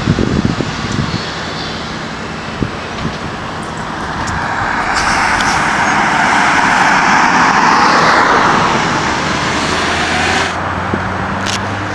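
A vehicle passing by: its noise builds from about four seconds in to a peak near eight seconds, then drops off, leaving a low engine hum near the end.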